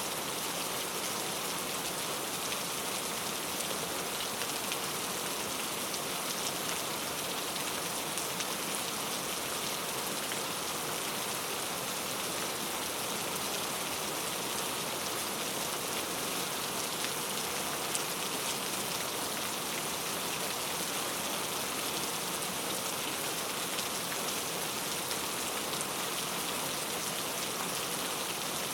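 Steady rain falling on foliage, an even hiss with scattered individual drops ticking.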